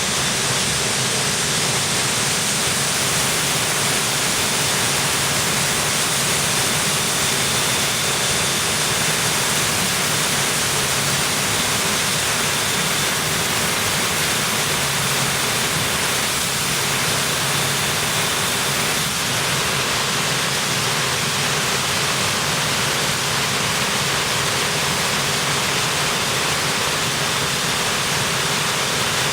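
Industrial grain vacuum running: a steady, loud rush of air from its electric-motor-driven twin vacuum pump, with a low hum and a faint high whine under it.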